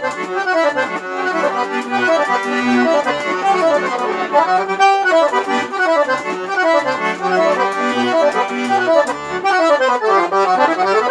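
Accordion playing a forró instrumental passage: fast runs of notes sweeping up and down over a steady pattern of short bass notes.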